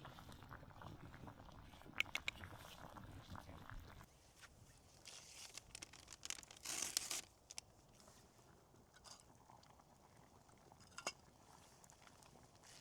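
Faint crunching and rustling handling sounds, with a few sharp clicks about two seconds in, a short hissy rustle around seven seconds, and another click near eleven seconds.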